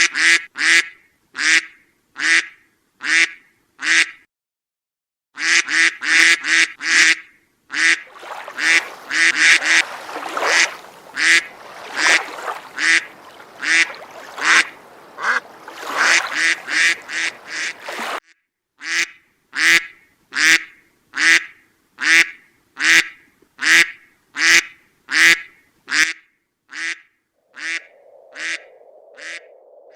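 Duck quacking over and over in short, evenly spaced quacks, with a brief pause about four seconds in. In the middle stretch the quacks come faster and overlap over a noisy background; near the end they settle to about two a second.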